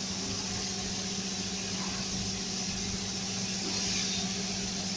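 Maruti Suzuki Ritz K-series petrol engine idling steadily, with an even hum and no misfire after the repair.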